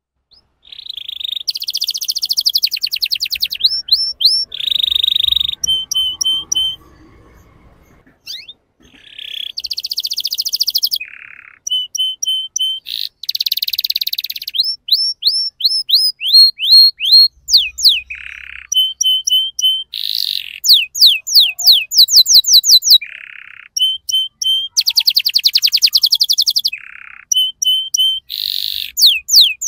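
Young male domestic canary singing a long, continuous song of rapid trills, runs of repeated whistled notes and quick up-and-down slurs, with a brief pause about seven seconds in.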